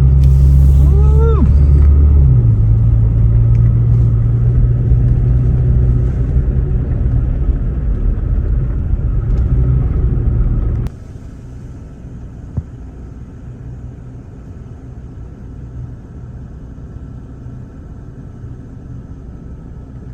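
A truck driving on a snowy road: a steady low engine and road drone. About eleven seconds in it drops suddenly to a quieter rumble.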